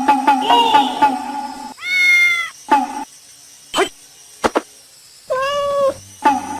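A cat meowing twice, each meow a short call that rises and falls in pitch, about three seconds apart.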